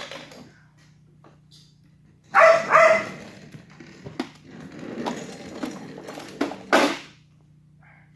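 A dog barking twice in quick succession, followed by softer scuffling noises, with a steady low hum underneath.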